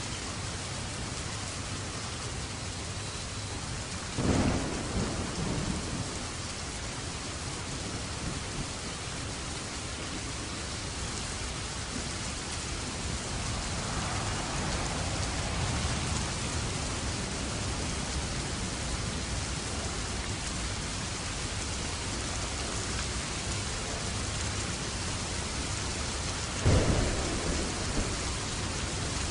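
Steady heavy rain with thunder: two sharp thunderclaps, one about four seconds in and another near the end, each rumbling off over a second or two, and a softer rumble partway through.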